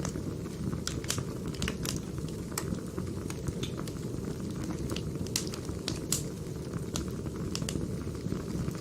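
Burning firewood crackling: a steady low rumble of the fire with irregular sharp pops and snaps, about two a second.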